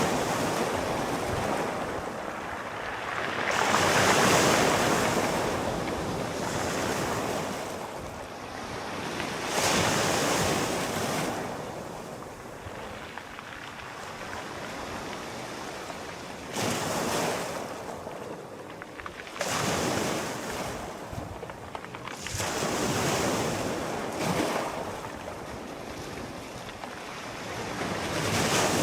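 Sea waves breaking and washing onto the shore, each one swelling and fading over a few seconds.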